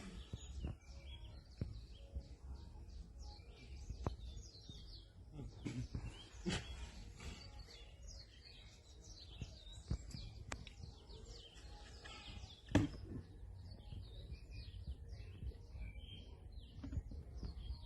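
Small birds chirping over and over, with a few scattered faint clicks and knocks. The loudest knock comes about thirteen seconds in.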